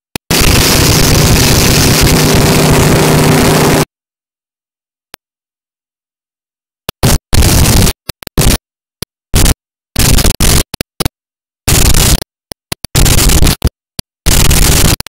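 Loud wind rush and a motorboat engine's hum overloading a phone microphone. About four seconds in, the recording starts dropping out to dead silence, leaving short bursts of the same noise cutting in and out.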